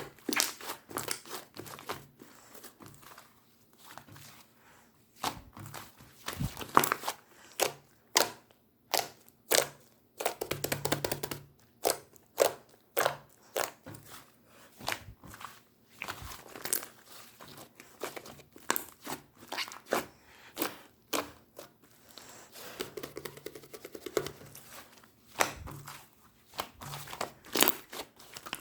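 Slime being squeezed and worked by hand, making an irregular run of sticky clicks, pops and crackles.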